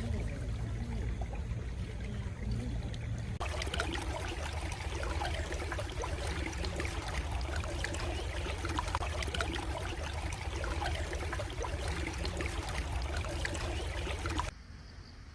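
Stream water running and trickling as a steady wash of noise. About three seconds in it turns brighter and fuller, and it falls away abruptly near the end.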